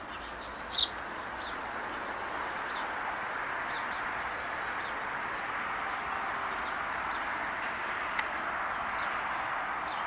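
A few short, high bird chirps scattered over a steady background hiss.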